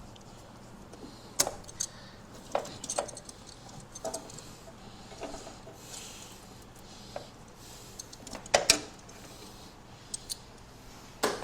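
Irregular metallic clinks and clicks of hand tools and parts being handled while old wiring is stripped from a car's engine bay, about a dozen sharp knocks with the loudest cluster near the end.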